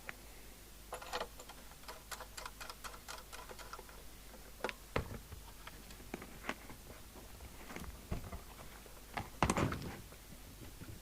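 Irregular small clicks and taps of a CB radio set and its parts being handled during reassembly, with a flurry of quick clicks about two seconds in and louder knocks about five and nine and a half seconds in.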